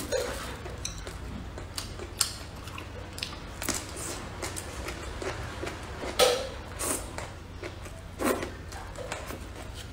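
Close-miked eating: chewing and slurping mouthfuls of egg fried rice and long pickled vegetable strips, with many short sharp clicks and a few louder wet mouth sounds, the biggest about 6 and 8 seconds in.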